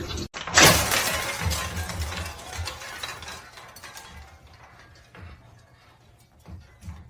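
A sudden crash, followed by clattering and clinking that dies away over a few seconds.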